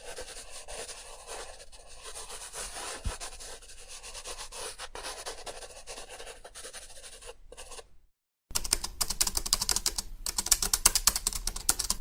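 Pen or pencil scratching over paper in quick, continuous writing strokes. After a brief silence about eight seconds in, fast typing on a keyboard starts, louder and clattering.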